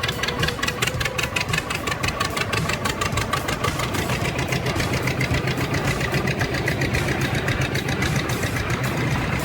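A heavy machine's engine running steadily, with a rapid, even pulse of about five beats a second.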